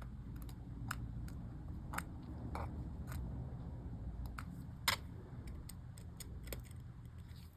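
Scattered small clicks and taps from handling MacBook keyboard parts, keycaps and their small plastic mechanisms, over a low steady hum; the sharpest click comes about five seconds in.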